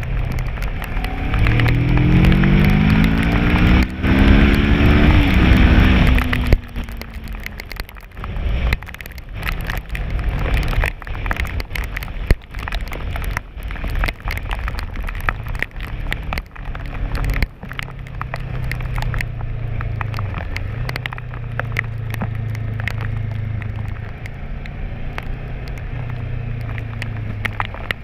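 Kawasaki ER-6n's 650cc parallel-twin engine accelerating hard, its note rising steeply for a few seconds before backing off about six seconds in; later it settles into a steady, even note. Rain and wind crackle on the helmet camera's microphone throughout.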